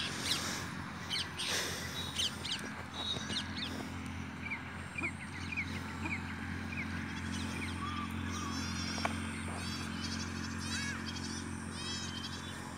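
Birds chirping and calling over and over in short rising and falling notes, over a steady low hum.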